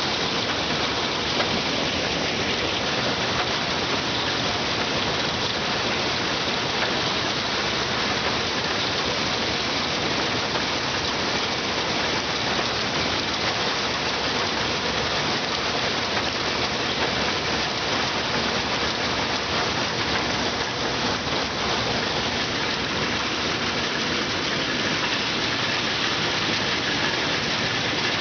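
Combine harvester at work in a sunflower field: a steady, even rushing noise from the machine, with no clear engine note standing out.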